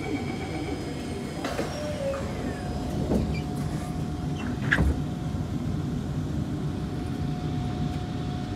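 Kawasaki C151 MRT train heard from inside the car: a steady rumble with a constant hum-like tone over it. A single thud comes about five seconds in.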